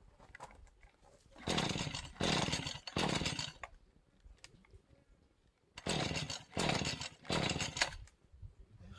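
Hand saw cutting with back-and-forth rasping strokes: three strokes, a pause of about two seconds, then three more.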